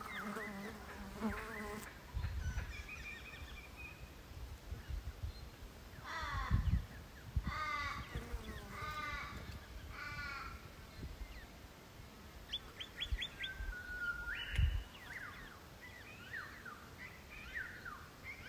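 Wild birds calling: bursts of quick, repeated chirps, with a brief held whistle-like note near the middle. Occasional low bumps from the camera being handled.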